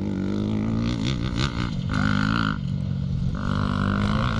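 Classic motocross motorcycle engines running and revving, their pitch rising and falling.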